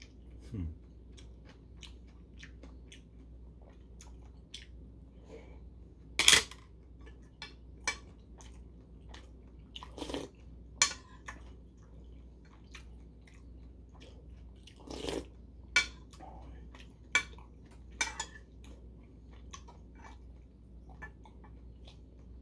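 Close-miked chewing and wet mouth sounds of a person eating rice-cake and dumpling soup, with a few sharp clinks of a metal spoon and chopsticks against a porcelain bowl.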